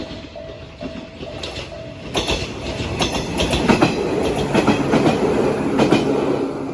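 Level-crossing alarm sounding its repeating Isesaki-type electronic tone, then a train passing over the crossing from about two seconds in, its wheels clacking in quick pairs over the rail joints. The passing train is loudest around the middle and drops off near the end.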